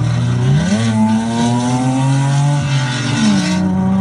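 Car engine running through a loud exhaust: its pitch rises quickly about half a second in, holds and creeps higher, then drops back a little after three seconds.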